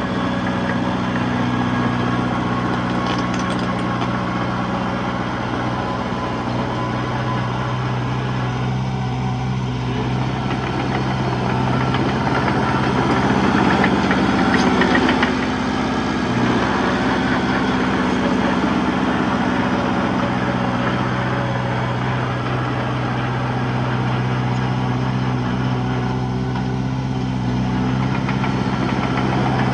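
Diesel engine of heavy earthmoving machinery running steadily, with a slight swell in loudness about halfway through.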